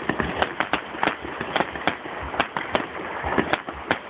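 Fireworks going off: a dense, irregular run of bangs and crackles, roughly three or four a second, some sharper and louder than others.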